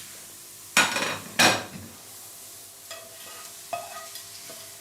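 A cooking utensil scrapes a frying pan twice as fried mushrooms are lifted out, over a faint sizzle from the hot pan. A few light clinks follow.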